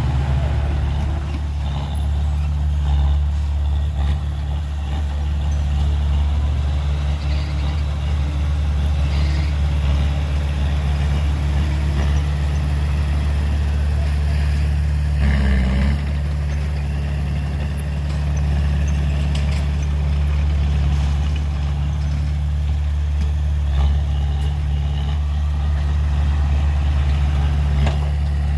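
Heavy diesel engine of earthmoving machinery running steadily at a low, even pitch, with one brief louder sound about halfway through.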